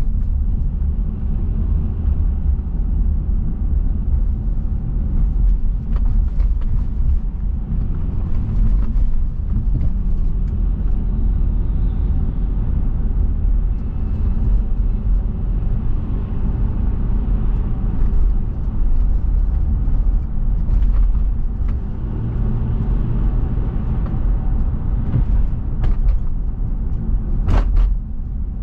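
Car driving on city roads: steady low road-and-engine rumble, with a couple of sharp clicks near the end.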